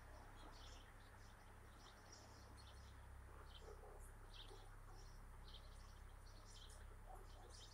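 Faint chirping of small birds: short, high calls scattered several times a second, over a low steady background rumble.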